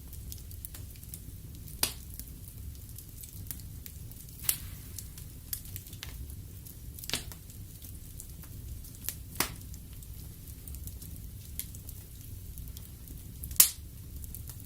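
Wood fire in a fireplace crackling, with a steady low rumble of the flames and scattered sharp pops from the burning logs. The loudest pop comes near the end.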